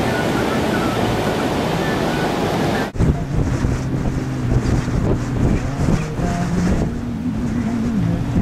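Surf from Hurricane Bill's swell rushing steadily, with wind on the microphone. About three seconds in it cuts off abruptly and gives way to gusty wind buffeting the microphone over a low, steady hum.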